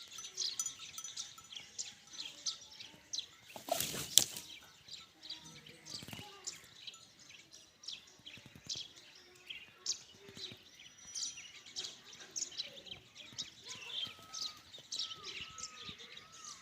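A chorus of small birds chirping and twittering, many short high calls overlapping, with a run of repeated falling whistled notes near the end. About four seconds in there is a brief loud rustle ending in a sharp knock.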